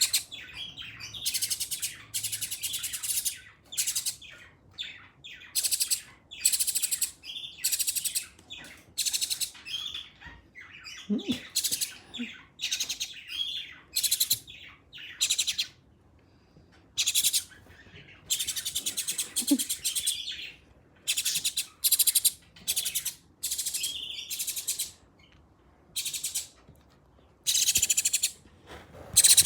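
Nestling birds giving begging calls: a long run of high, rasping chirp bursts, each lasting under a second, repeated with short gaps.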